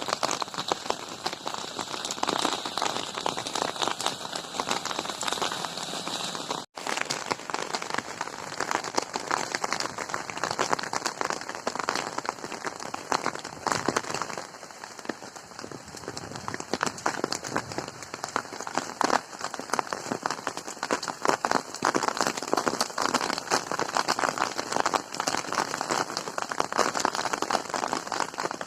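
Rain falling steadily, a dense wash of many individual drop hits, with a momentary break in the sound about seven seconds in.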